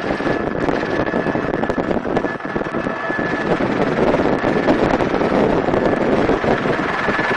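Helicopter in flight heard from inside the cabin: steady rotor and engine noise with wind buffeting the microphone, and a thin steady high tone running through it.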